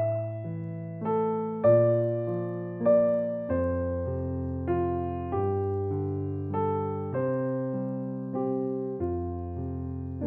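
Background music: a gentle piano piece, single notes and chords struck every half second to second and left to ring.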